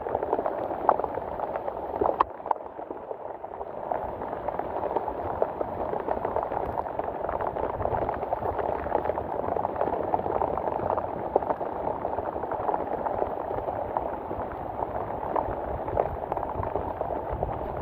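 Heavy rain falling steadily, a dense hiss of countless drops, with a few sharper drop hits about two seconds in.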